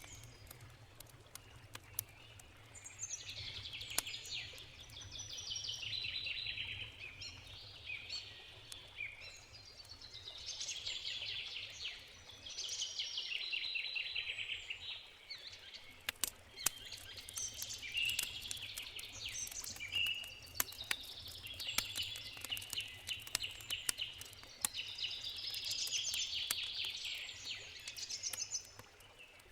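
A songbird sings trilled phrases, one every few seconds, over a campfire crackling with scattered sharp pops. A steady low rumble runs beneath.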